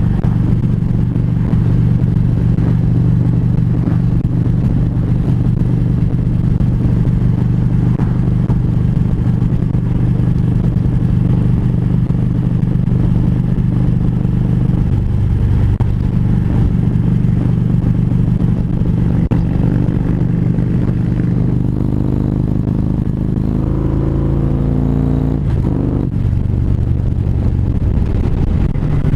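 Harley-Davidson Road Glide's V-twin engine running at a steady highway cruise, heard from the rider's seat, with the engine note shifting in pitch for a few seconds near the end.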